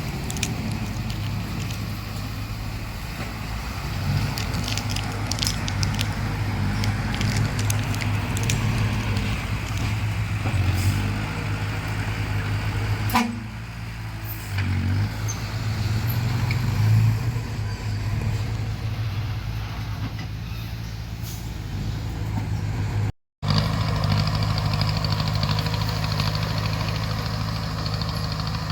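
Bulldozer's diesel engine running steadily under load, with scattered sharp clicks and cracks in the first half. The sound cuts out briefly about two thirds of the way through, then the engine carries on.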